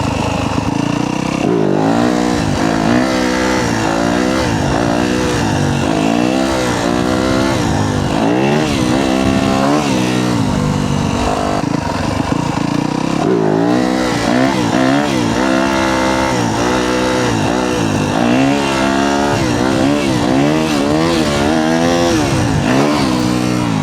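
Yamaha YZ250F's 250cc four-stroke single-cylinder engine revving up and down repeatedly while riding, its pitch swinging about once a second, with a short break about halfway through.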